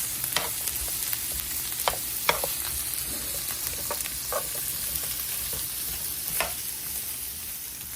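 Sliced onions, carrots and bell peppers sizzling on an electric grill with a steady hiss, while a utensil stirs them and clicks against the cooking surface about ten times.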